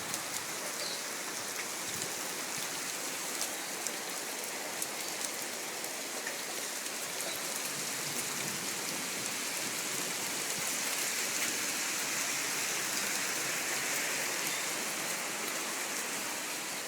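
Heavy rain pouring down and pattering on surfaces, a steady hiss dotted with individual drop ticks that swells slightly midway.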